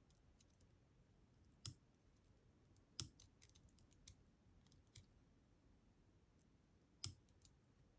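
A few faint, sharp metallic clicks, five or so spread over several seconds, as tweezers pick at the small discs and spacers of a DOM Diamant disk detainer lock that are stuck tight in the lock.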